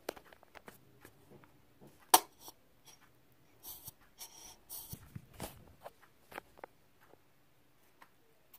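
Handling noises of a plastic conditioner bottle being squeezed over the slime bowl: scattered light clicks and taps, one sharp click about two seconds in, and a few short squirting, hissing bursts between about four and five and a half seconds in as conditioner is squeezed out.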